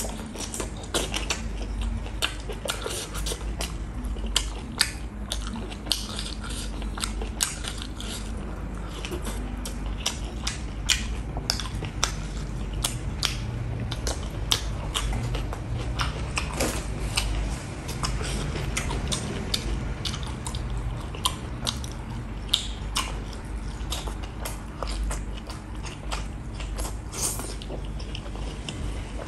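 Close-up chewing and mouth smacking of someone eating rice, beef and cooked mustard leaf by hand, with many short sharp smacks and clicks in quick, irregular succession. A low steady hum sits underneath.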